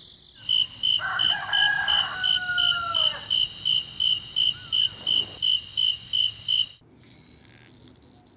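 Insects, crickets by the sound of it, chirping in a steady rhythm of about three chirps a second, with a drawn-out, slightly falling call laid over them from about a second in to about three seconds. The chirping cuts off abruptly near the end.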